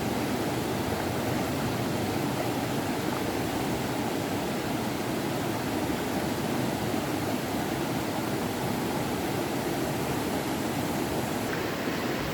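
A steady, even rush of running water.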